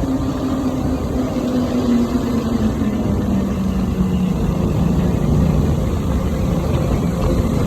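BMW S1000RR inline-four motorcycle engine with an Akrapovič exhaust running in a tunnel, under heavy road and wind rumble. The engine note falls slowly over the first few seconds, then holds steady.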